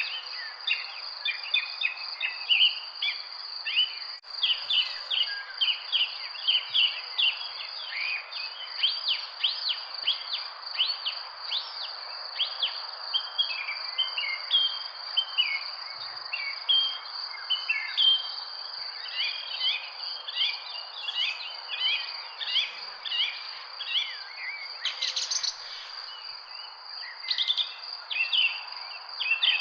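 Many birds chirping with quick, short calls, over a steady high-pitched insect drone, cricket- or cicada-like.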